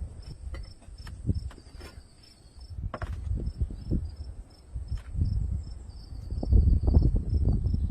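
Insects chirping outdoors: a high trill pulsing about three times a second over a steady higher whine. Underneath are irregular low rumbles and knocks, loudest near the end, with a few sharp clicks.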